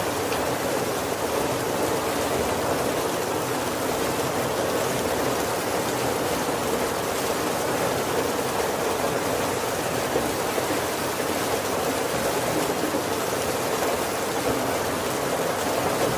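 Heavy rain falling steadily on the wooden roof of a carriage, a dense, even hiss that does not let up.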